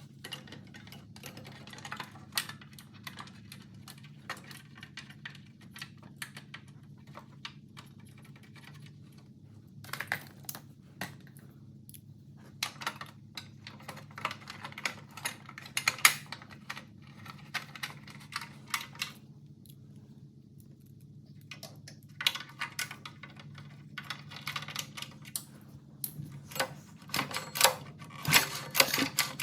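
Scattered light clicks and taps of metal and plastic parts being handled as the starter cover is fitted onto a mini bike engine. A steady low hum runs underneath, and the clicks come thicker and louder near the end.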